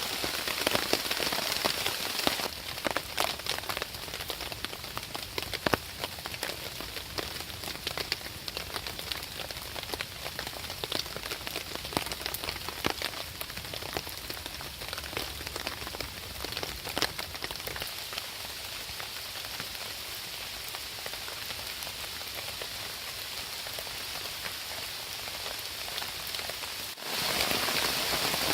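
Steady rain falling, with many separate drops striking close by. It gets quieter a couple of seconds in and louder again near the end.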